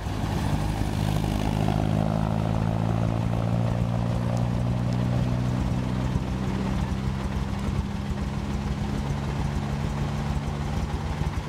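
MG MGA's four-cylinder engine running steadily as the open sports car drives along.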